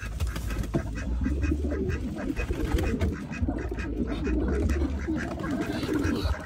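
Birds calling with continuous low-pitched calls, close by.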